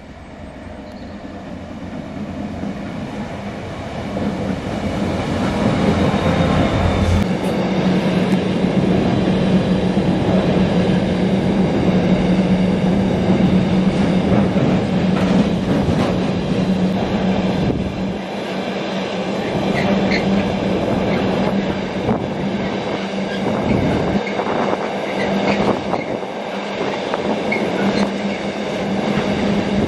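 A diesel-hauled container freight train approaching and passing. The locomotive's engine grows louder over the first six seconds, its heavy low rumble ends sharply about seven seconds in, and its engine note carries on steadily until it fades at about eighteen seconds. A long rake of container wagons follows, rumbling past with wheels clicking over the rail joints.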